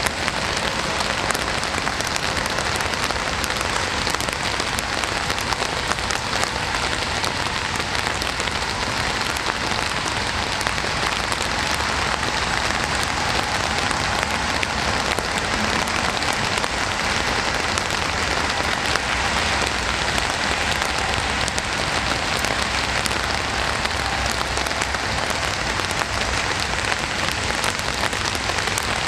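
Steady rain falling, with the pattering of drops hitting a surface.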